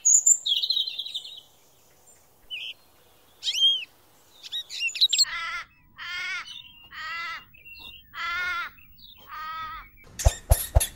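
A sparrow chirping: a quick run of high chirps over the first second or so, then scattered single chirps. About halfway through come five evenly spaced, harsher calls with a wavering pitch, each about half a second long, then a few sharp clicks near the end.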